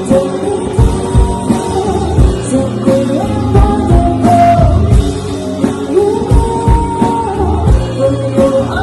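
Live rock band playing a slow song: a male singer over guitars and a drum kit, with a steady kick-drum beat.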